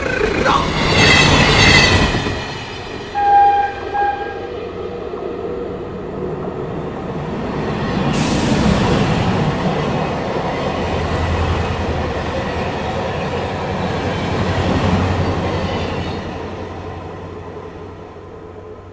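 Train sound effects: a passing train's rolling rumble, with two short horn toots about three seconds in. The rumble swells, then fades away near the end.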